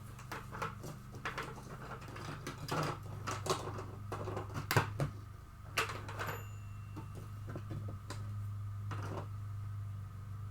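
Irregular clicks, taps and rustles of small objects being handled, the sharpest a little before and after five seconds in, over a steady low electrical hum.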